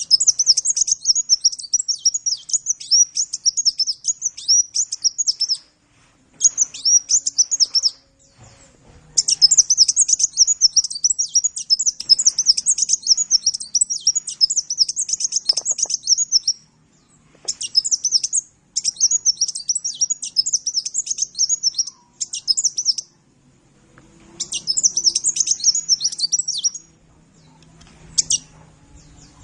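A sunbird (the Indonesian 'kolibri') singing a fast, high-pitched twittering song in long runs of rapid chirps that break off for short pauses, the longest run lasting about seven seconds.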